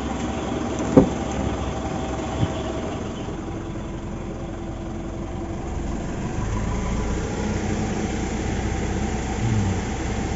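Mitsubishi Montero's common-rail diesel engine idling steadily without misfiring, its injectors freshly recalibrated, with two sharp clicks in the first few seconds. About six seconds in, the idle grows heavier and a little louder as the air conditioning is switched on and loads the engine.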